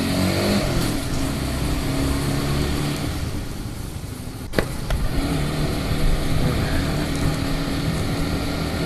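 Honda CBR150R's single-cylinder engine running through its stock exhaust at low speed. The note falls as the bike slows in the first half-second and sags quieter a few seconds in. A single sharp click comes about halfway through, and then the engine picks up and holds a steady note.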